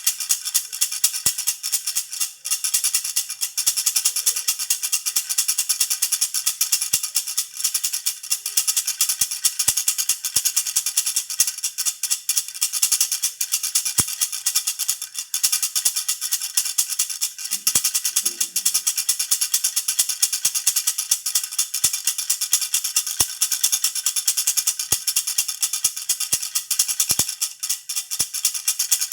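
Baby rattle (jhunjhuna) shaken continuously, a fast, even jingling with a bright ringing.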